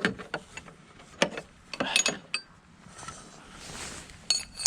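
A wrench working on a motorcycle's steering yoke: scattered sharp metal clicks and clinks, a few ringing briefly, with a soft rustle a little past the middle and another clink near the end.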